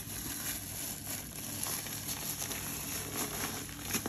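Mawa (khoya) roasting in its own released ghee in a heavy kadhai: a faint, steady sizzle with small scattered crackles.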